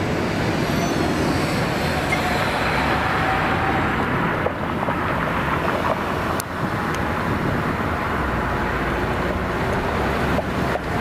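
Steady rumble of an approaching Metra commuter train, mixed with a wash of wind on the microphone, with a few faint clicks late on.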